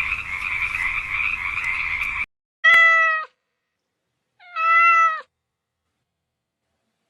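A steady frog chorus that cuts off suddenly about two seconds in, followed by a domestic cat meowing twice, each meow under a second long, held level and then dropping in pitch at the end.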